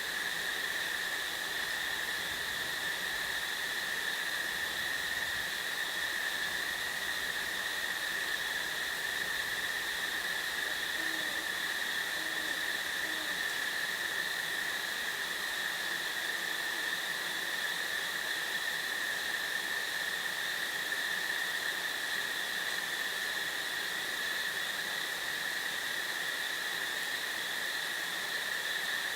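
Insects trilling in a continuous, unbroken high-pitched drone, with no pauses or changes in pitch, over a soft even hiss.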